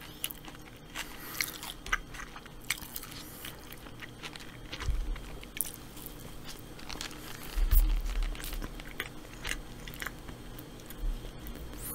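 A person biting into and chewing a large burger close to the microphone, with scattered small crunches and mouth clicks. There are a few low thumps about five and eight seconds in.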